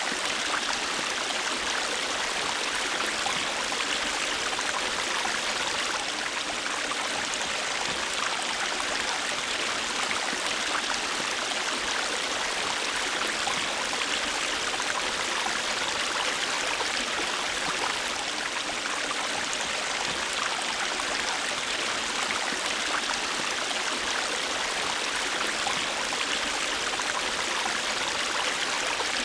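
A river or stream flowing over rocks: a steady rush of water with fine splashing and trickling.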